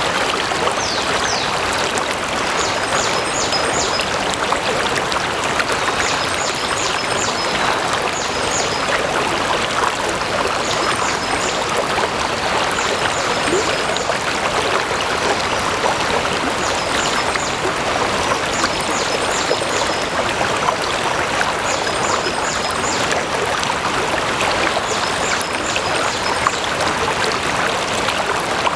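Stream water running steadily over rocks, an even babbling rush. A faint cluster of short, high chirps repeats every two to three seconds.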